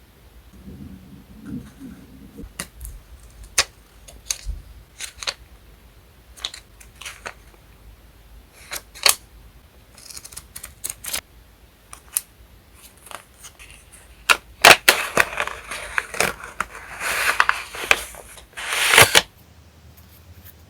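Paper crafting handled close to the microphone: scattered light taps and clicks of stationery being picked up and set down, then a few seconds of paper and sticker sheets rustling and crinkling, loudest near the end, cutting off suddenly.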